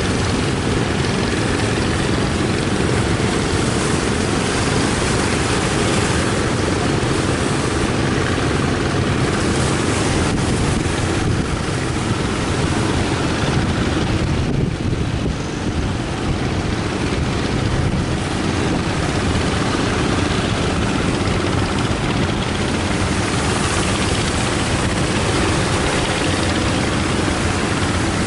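Strong wind buffeting the microphone: a loud, steady rush with a heavy low rumble and no letup, dipping slightly about halfway through.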